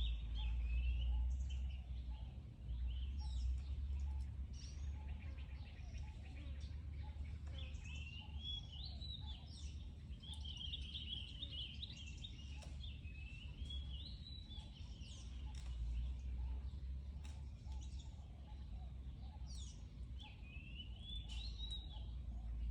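Birds chirping and twittering in quick, high trills that come and go, thickest in the middle and again near the end, over a steady low rumble of outdoor background noise.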